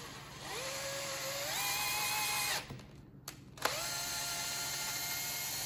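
Power drill driving a thread tap into a bolt hole in a Kohler K301 engine block, chasing the threads. Two runs of a steady motor whine: the first rises in pitch as it spins up and stops about two and a half seconds in, and the second starts about a second later.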